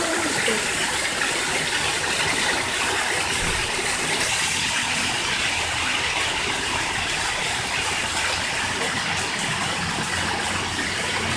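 Steady rushing of running water, with no clear breaks or rhythm.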